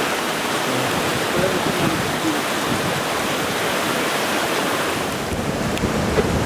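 Steady rushing of the Mohawk River's fast floodwater, swollen far above its normal level.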